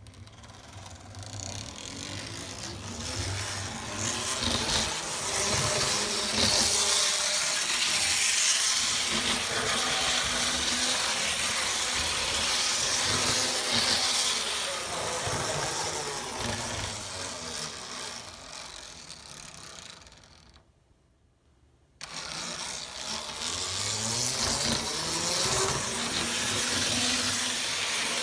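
N scale model locomotive, an Arnold Rapido V200, running on track: its small electric motor whirring and its wheels rattling over the rails, growing louder over the first few seconds. About 21 seconds in it fades almost to nothing, then starts again suddenly a second later, the motor's pitch rising as it speeds up.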